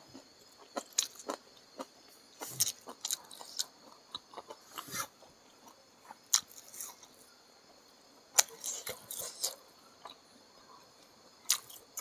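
Close-up eating sounds: a person chewing a mouthful of rice with chicken gizzard and liver in green chili sambal. Irregular wet smacks and sharp clicks of the mouth, a few louder than the rest.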